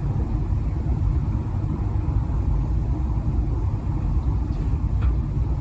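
Domestic cat purring steadily, a low continuous rumble close to the microphone, as it is stroked and tickled on its paw pads.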